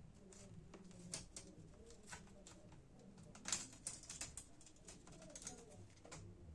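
Faint, irregular small clicks and taps from hands working on a laptop keyboard assembly, with the sharpest tap about three and a half seconds in.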